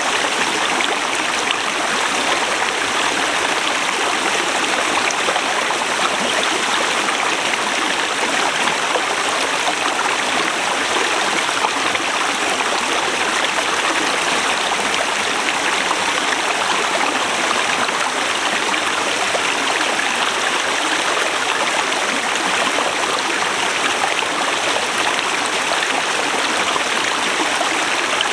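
Forest river running over rocks: a steady, unbroken rush of flowing water.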